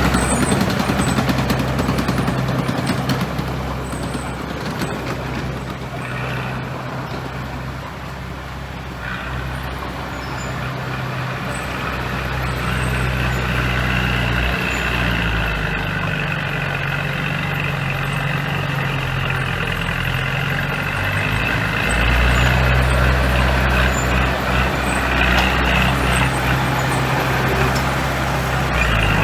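Diesel engines of heavy earthmoving equipment running steadily, their note shifting in pitch a few times as load changes. A higher steady whine joins for several seconds in the middle.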